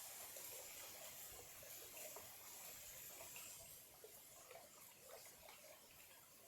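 Small clear-water stream trickling faintly, with many small irregular gurgles over a steady hiss.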